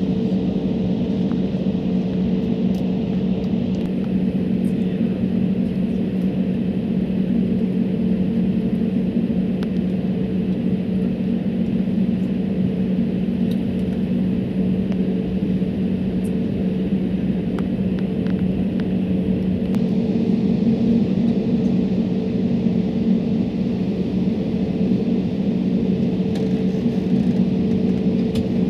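Steady cabin drone of a jet airliner in flight: engine and airflow noise with a constant low hum and a fainter higher tone above it.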